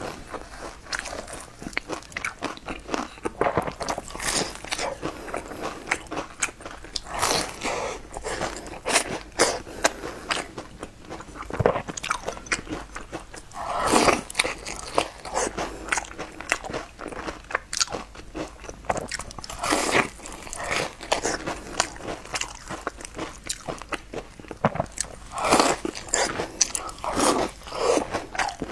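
Biting and chewing crunchy food close to the microphone: a dense run of crisp crunches and clicks, with several louder bites spread through.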